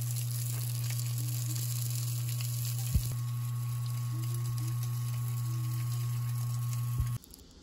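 Buckwheat crepe rolls frying in a pan, a light sizzle over a steady low hum, with a click about three seconds in. Sizzle and hum cut off suddenly about seven seconds in.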